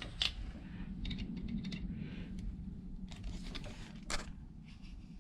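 Faint scattered clicks and scratches of a cable's outer jacket being cut by hand, worked carefully so the insulated conductors inside aren't nicked, with the sharpest click about four seconds in, over a low steady hum.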